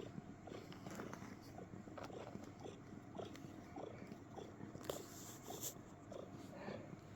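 Pet cat making faint, short, repeated clicking chirps, the cricket-like sounds it makes while settled and content, a few each second and uneven in spacing. A brief rustle comes about five seconds in.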